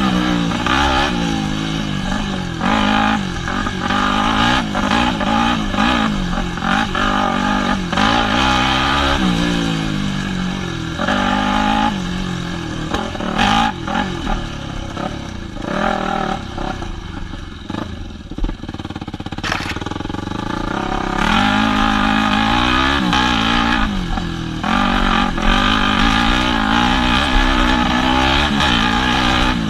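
Yamaha WR250F dirt bike's 250 cc four-stroke single-cylinder engine revving up and down over and over as it rides, easing to lower revs and quieter for a few seconds just past the middle before picking up again.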